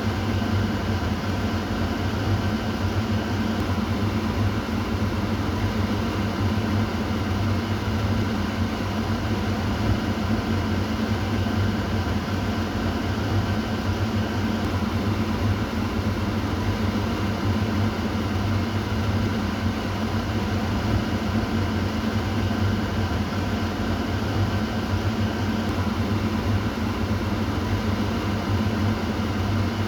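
Kitchen exhaust fan running steadily: a low motor hum under an even rush of air, unchanging throughout.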